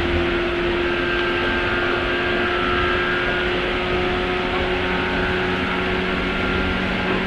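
Interior running sound of a 103 series electric multiple unit motor car (MoHa 102) with MT55 traction motors, running at steady speed: wheel and rail noise with a steady hum held at one pitch.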